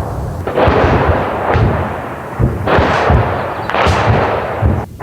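Dense artillery shelling close by: several shell blasts in quick succession, each fading out in a rumbling tail.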